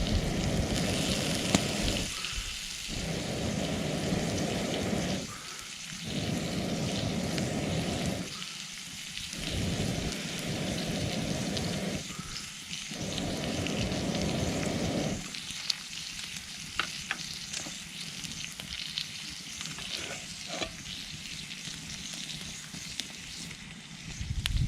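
Food frying and sizzling over a campfire, a steady hiss with small pops and crackles. For the first part a low rushing noise comes and goes about five times, each lasting about two seconds.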